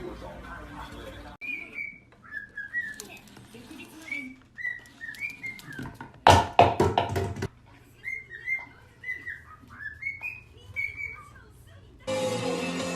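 A parrot giving a long run of short whistled chirps, each with a quick rise or fall in pitch, interrupted by a loud harsh burst lasting over a second about halfway through.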